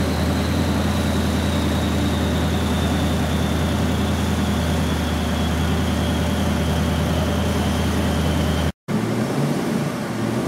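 Twin-turbo 4-litre car on a chassis dyno, running steadily at a low, even drone with a high whine that slowly falls in pitch, not revving. Near the end the sound cuts out for an instant and returns as a lower, quieter hum.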